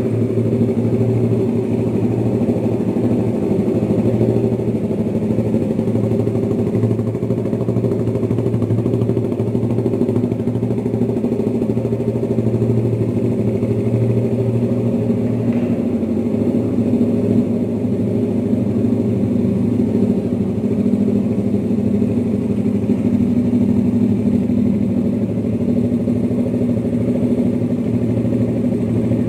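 A freshly refreshed Suzuki Raider 150 carburettor model's single-cylinder four-stroke twin-cam engine idling steadily on its first test run after new valve seals.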